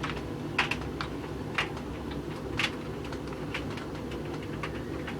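Hoover tumble dryer running with a steady hum as the drum turns, and a sharp click about once a second as something in the load knocks against the drum.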